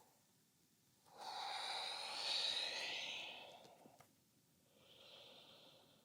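A person breathing audibly, close to the microphone: one long breath of about two and a half seconds, then a fainter, shorter breath near the end.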